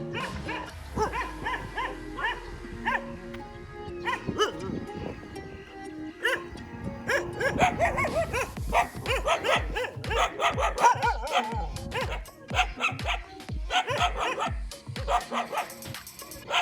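Village dogs barking and yipping in many short, pitch-bending calls, over background music whose steady beat comes in about halfway through.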